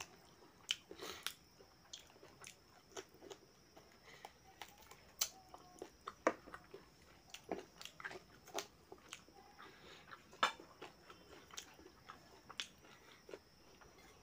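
Close-up eating sounds of a man chewing mouthfuls of rice and mutton curry eaten by hand: wet chewing and lip smacks in irregular short clicks, a few a second.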